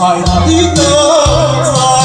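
A man singing a slow ballad over a backing track with bass and light percussion, holding a note with a wide vibrato about half a second in.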